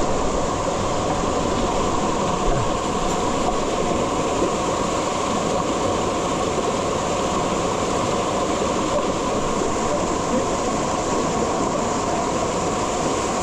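Waterfall with a heavy flow, its water pouring and rushing in a steady, unbroken noise.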